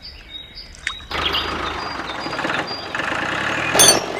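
Mini diesel engine running, starting abruptly about a second in, with a sharp click near the end. Birds chirp faintly over it.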